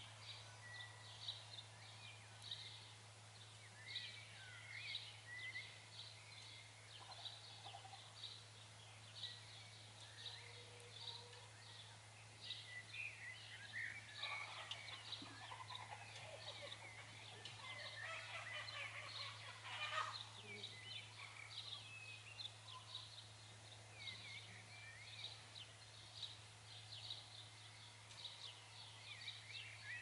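Several small birds singing, with many short high chirps and trills overlapping throughout, faint, over a steady low hum.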